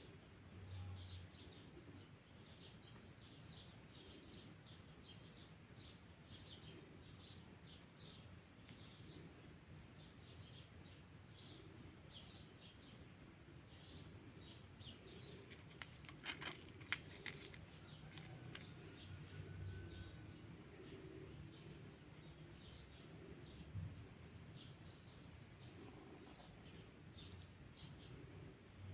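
Faint high chirps from small wildlife, repeated two or three times a second throughout. A few sharp clicks come about halfway through.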